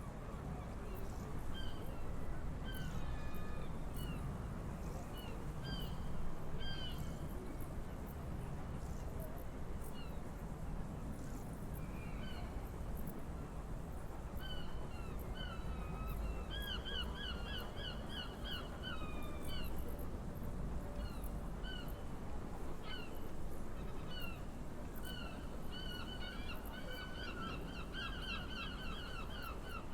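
Birds calling in runs of short, quick, falling chirps, busiest in the second half, over a low steady rumble.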